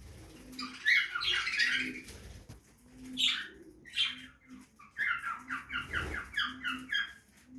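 Budgerigars chattering and squawking: a burst of warbling calls, two sharp squawks, then a quick run of repeated chirps near the end.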